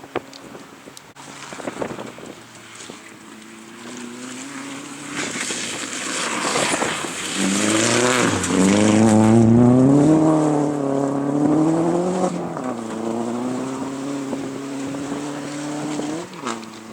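Rally car approaching and passing at speed, its engine note rising and falling as it is driven hard, loudest about eight to eleven seconds in, then running on more steadily as it pulls away.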